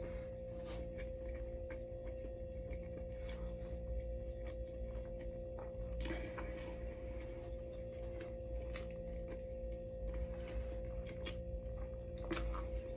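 A person chewing and biting into a sandwich during speed eating, with scattered short mouth clicks and crackles, over a steady humming tone.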